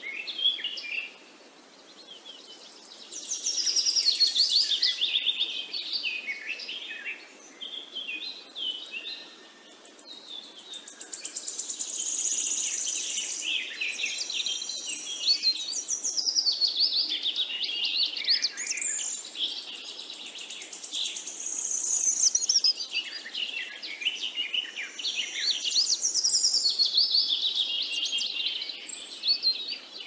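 Several wild birds singing at once, overlapping chirps and fast trilled phrases in bouts of several seconds with brief lulls, over a faint steady hiss.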